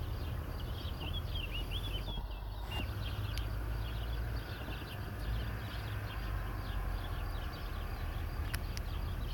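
Small birds chirping and twittering throughout, with a few short whistled phrases about two seconds in, over a steady low rumble. A few sharp clicks sound near the end.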